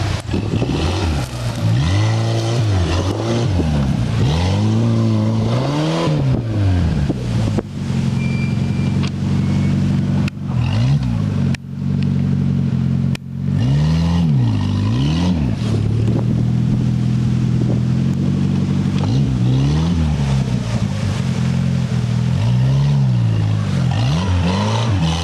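A buggy's engine sound running and revving up and down again and again, its pitch rising and falling in quick sweeps over a steady running note, with a few brief drops about halfway through.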